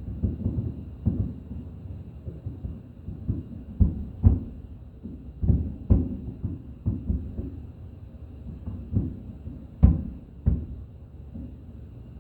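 Aerial fireworks bursting: an irregular rapid series of low booms, some much louder than others.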